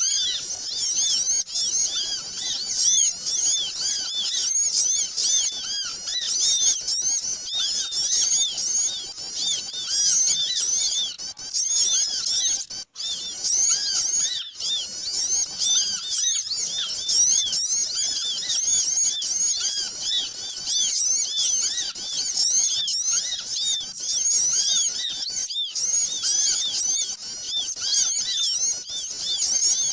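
Many small birds chattering at once, a dense, continuous stream of overlapping high chirps: a noisy bird-lure (pikat) call recording meant to draw in small birds.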